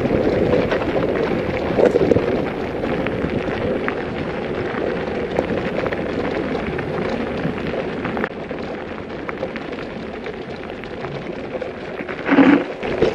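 Bicycle tyres rolling and crackling over a gravel track, with the camera rattling from the ride's vibration. A brief louder burst comes about a second before the end.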